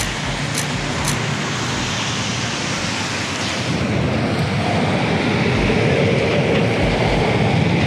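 Road traffic on a rain-wet street: a steady hiss of tyres and engines that swells about halfway through. There are two short sharp clicks about half a second apart in the first second.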